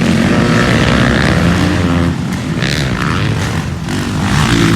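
Motocross dirt bikes racing on the track, their engines revving up and down as they pass.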